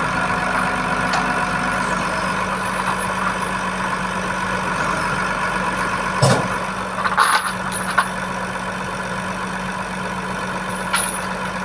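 Truck engine running steadily at idle, with a few short sharp knocks about six, seven, eight and eleven seconds in.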